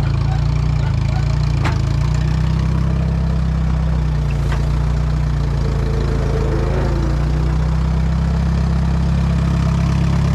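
Allis-Chalmers WD tractor's four-cylinder engine idling steadily, with two brief clicks about three seconds apart.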